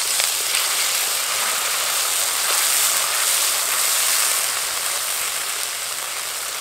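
Ground spice paste of ginger, green chilli, poppy seed and cashew sizzling in hot vegetable oil in a kadai, just after a splash of water has gone in. A steady hiss that eases a little near the end.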